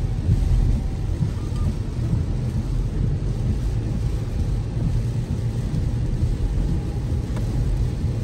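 Toyota RAV4 driving in heavy rain: a steady low rumble of road and rain noise.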